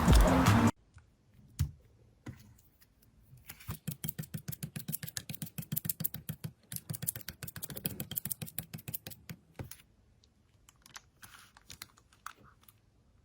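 Music that cuts off abruptly under a second in, then slime being squeezed and poked, making a quick run of sharp clicking pops, about five a second, for some six seconds, thinning to scattered clicks near the end.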